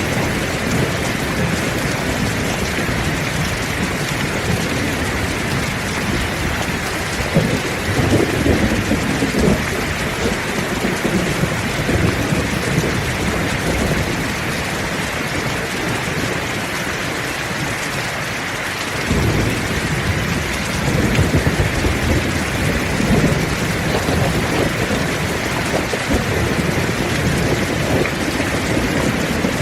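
Heavy rain falling steadily, with rolls of thunder rumbling low under it, the strongest about 7 to 10 seconds in and again about 19 seconds in.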